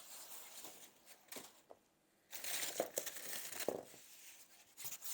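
Packing material crinkling and rustling as a box is unpacked, with a few light knocks; the crinkling is loudest in a stretch starting a little before halfway through.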